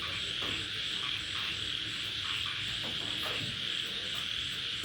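Night chorus of insects and frogs: a steady high trill with a faster repeating chirp above it and scattered short croaks.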